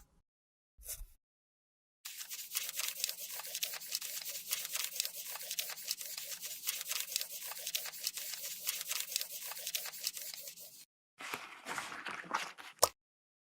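Close-up scraping and crackling of a makeup product being worked with a tool, a dense run of rapid small clicks lasting about nine seconds. It stops suddenly, and a shorter scratchy burst follows after a brief gap.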